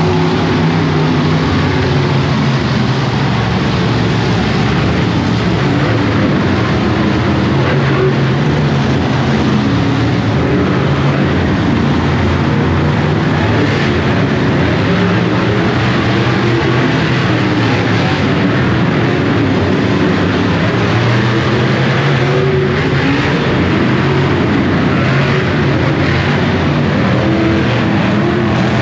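Monster truck engines, supercharged big-block V8s, running loud and continuously, their pitch rising and falling as they rev.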